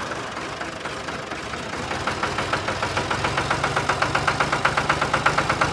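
Small diesel tractor engine sound running at idle with a rapid, even chug, the beat growing more distinct about two seconds in.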